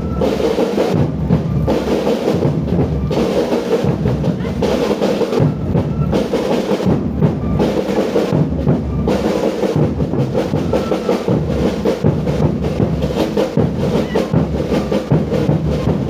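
Live band music with drums beating steadily and continuously.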